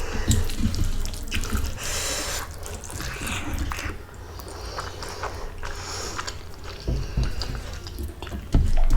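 Close-miked eating of rice with fish curry: wet mouth sounds and chewing with irregular small clicks and smacks.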